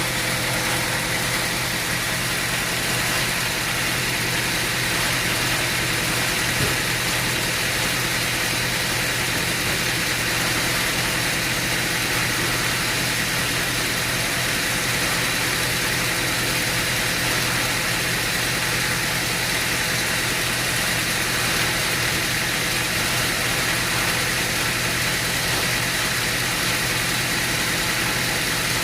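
Sawmill machinery running with a steady, unchanging engine-like drone and a constant whine above it.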